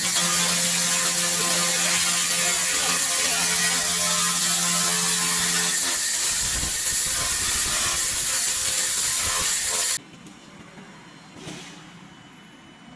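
LaserMen LM-2000 2 kW handheld laser machine firing on metal: a loud, steady crackling hiss with a hum beneath it for the first six seconds, cutting off suddenly about ten seconds in.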